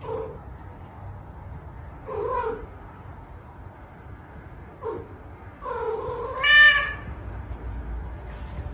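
A domestic cat meowing four times, the last call longer, higher and the loudest.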